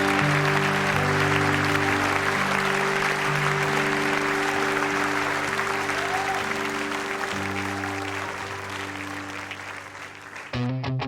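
Audience applause over the held closing chords of a worship song, both fading away; about ten seconds in, the next song's guitar-strummed intro starts abruptly.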